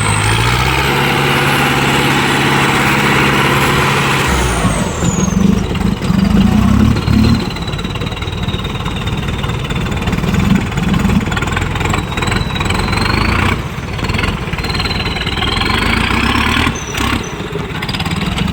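4455 BT tractor's diesel engine running hard under load in a tractor tug-of-war. It runs steady with a high whine for about four seconds, then its pitch drops and it runs rougher and uneven.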